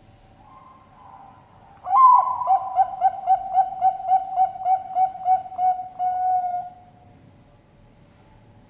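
Bangkok-type zebra dove (perkutut) cooing its song. A loud opening note is followed by a quick run of about a dozen short coos, about three a second, ending on a longer held coo.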